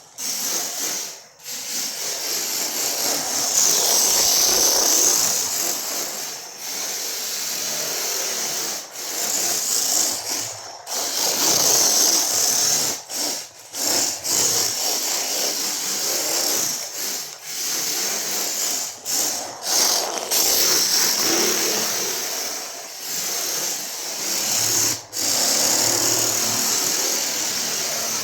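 Rough, hissy scraping or rubbing noise, continuous but broken by many brief gaps.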